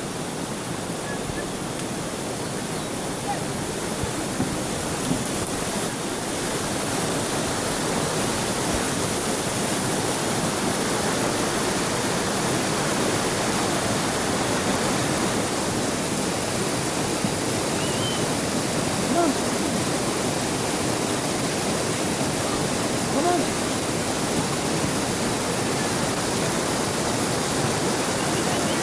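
Rushing stream water, a steady noise that grows louder over the first several seconds and then holds.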